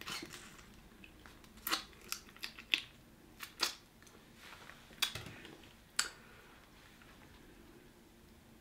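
Eating boiled shrimp with the shell on: about ten small, sharp crunches and clicks of shell being bitten and chewed, stopping about six seconds in.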